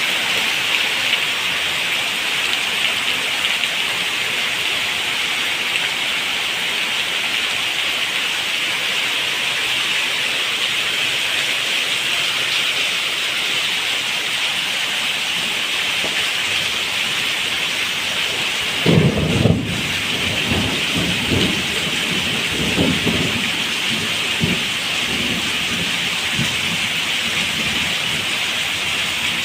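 Heavy rain falling steadily, a constant hiss. About two-thirds of the way in, a sudden low crack of thunder, then a rumble rolling on in uneven waves for several seconds.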